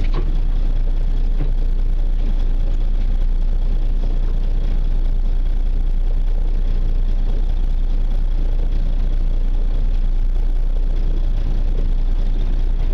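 Fishing boat's engine running steadily at low revs, a constant low drone.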